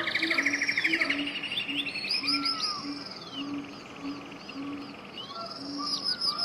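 Several birds singing together: a fast trill and many quick, downward-sweeping chirps, over a short low note that repeats about twice a second.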